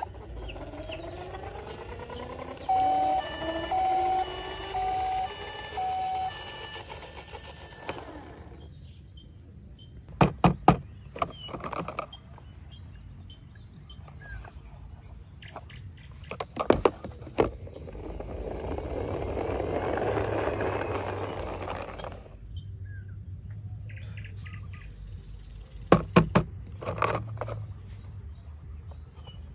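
Toy vehicle sounds: a rising electronic whine with four short beeps over it, then scattered sharp clicks and knocks and a swell of rushing noise partway through.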